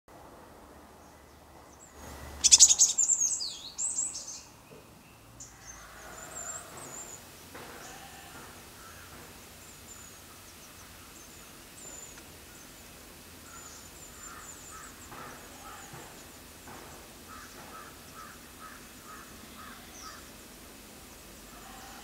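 Wild birds calling: a loud burst of shrill, sweeping calls about two and a half seconds in that lasts a couple of seconds, then faint high chirps and short runs of quick repeated notes.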